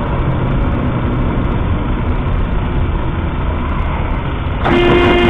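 Steady engine and road noise of a moving car, then a car horn sounds one steady blast of about a second near the end.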